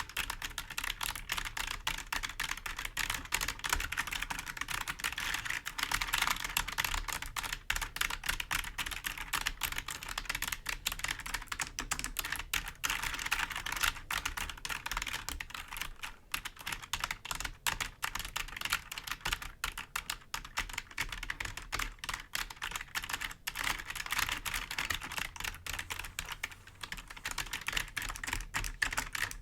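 Fingernails tapping and scratching over computer keyboard keys in a rapid, continuous flurry of clicks.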